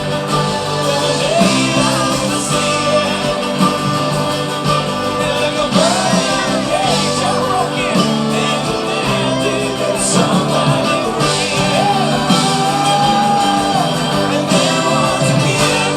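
A live band playing, with a lead singer's voice over guitars, drums and bass. The song is loud and steady.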